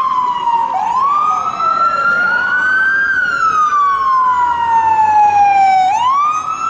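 Police car electronic siren in a slow wail. The pitch falls steadily over about three seconds, then sweeps quickly back up; this happens twice. Other rising wails overlap it in the first couple of seconds.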